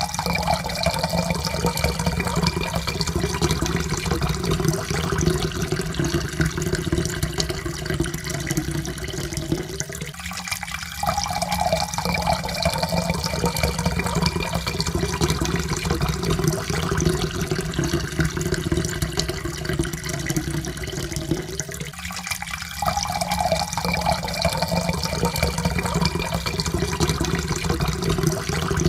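Water poured steadily into a cup, with a faint tone that rises slowly in pitch as the cup fills. The pour starts over about every twelve seconds, twice within this stretch.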